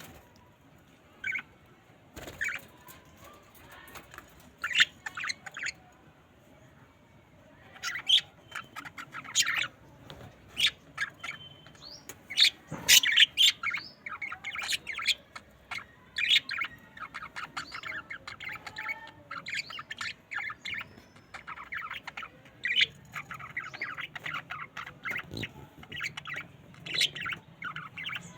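Budgerigars chirping and squawking: scattered short high calls at first, growing busier and running into a steady chattering warble in the later part.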